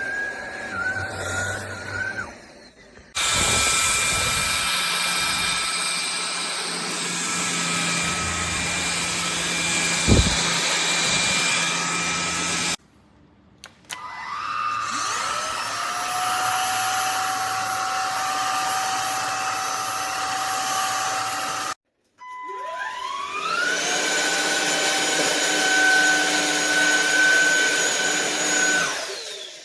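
Cordless stick vacuum motor in several separate runs. Twice it switches on, its whine rising quickly and then holding steady over a rush of airflow, and near the end it winds down.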